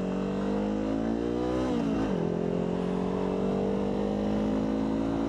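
Motorcycle engine accelerating through the gears: its pitch climbs steadily, dips at an upshift about two seconds in, then climbs again.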